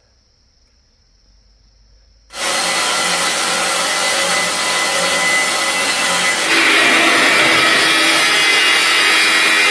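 Faint steady insect chirring, then about two seconds in a power tool cuts in abruptly and runs loud and steady, its sound shifting a few seconds later as it works.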